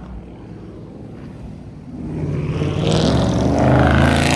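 A high-performance car engine accelerating hard as the car pulls away. It is low for about two seconds, then swells into a loud, full-throttle run.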